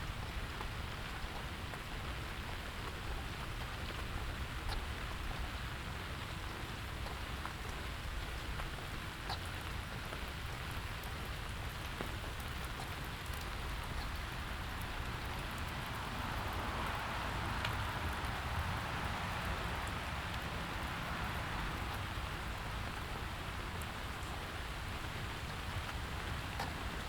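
Steady rain falling on hard surfaces, with scattered drop ticks. A broader hiss swells up in the second half and fades again.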